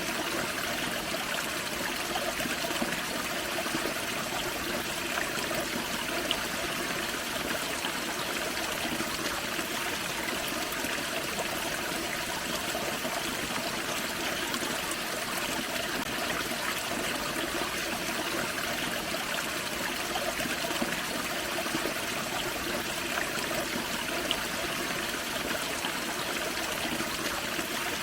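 A small forest waterfall and creek, water splashing and trickling in a steady rush.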